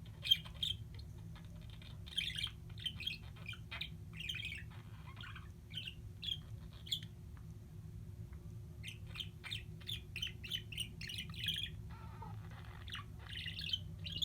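A pet bird singing in rapid strings of short chirps and squawky notes, with a few seconds' pause in the middle before it starts up again; the owner takes it for happy singing. A steady low hum runs underneath.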